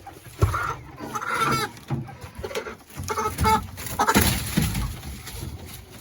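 Broiler chickens clucking and squawking in irregular calls, with a few sharp thumps among them.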